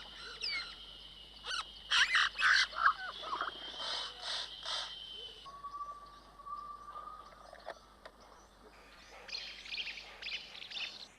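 Several birds calling in tropical forest: a busy run of chirps, whistles and short calls, loudest in the first half, over a steady high drone.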